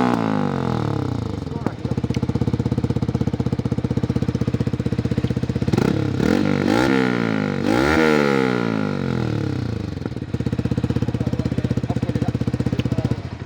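Yamaha R15 V3's single-cylinder engine running through an aftermarket exhaust with the dB killer fitted. It idles steadily and is revved in short throttle blips near the start, about six seconds in and again around seven to eight seconds in, the pitch falling back to idle after each.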